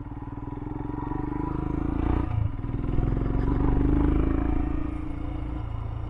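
Royal Enfield Himalayan's single-cylinder engine running as the motorcycle rides on, building up over the first few seconds with a short break in the pull about two seconds in, then easing off.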